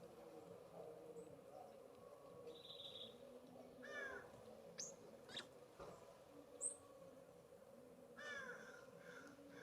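California Scrub-Jay giving harsh, raspy calls twice, about four seconds in and again near the end. Short, sharp high call notes come in between, over a faint steady hum.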